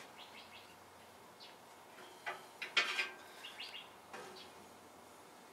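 Birds chirping in short calls, with a few sharp dish clinks about two to three seconds in.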